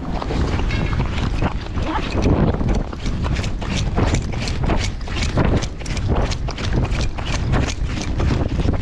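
Strong wind buffeting the microphone, with a quick run of crunching steps, a few a second, from about three seconds in.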